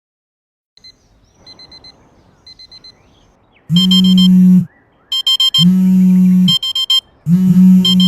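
Alarm clock going off with electronic beeping. It starts with two faint runs of quick beeps, then from about halfway through loud tones of about a second each repeat, with short runs of rapid beeps between them.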